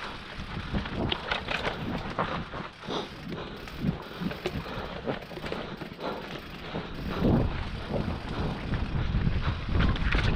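Mountain bike riding down a dirt trail: tyres on the ground and the bike clattering over bumps in many short knocks, with wind rumbling on the microphone.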